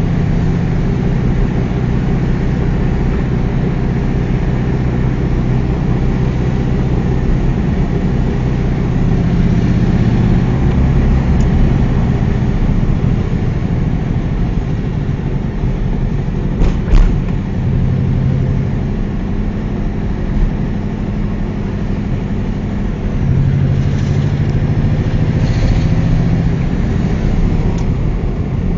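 1992 Volkswagen Beetle's air-cooled flat-four engine running while driving, heard from inside the cabin, its note shifting a few times with speed. A single sharp knock comes about 17 seconds in.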